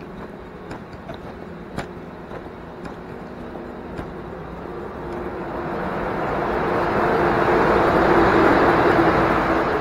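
Train running on the tracks through a covered station: its rumble swells over several seconds to a peak about eight seconds in, with a steady low hum, then begins to ease.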